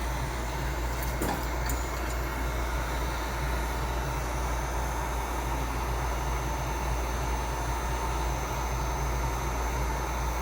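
Heat gun blowing steadily: a constant rush of air with a low hum and a faint steady whine, with a couple of light clicks about a second in.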